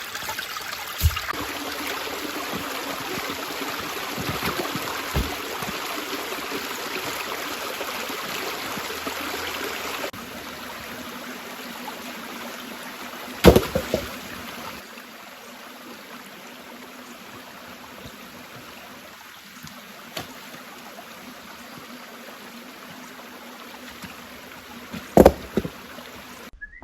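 Creek water running steadily, turning quieter about ten seconds in and again a few seconds later, with a few sharp knocks.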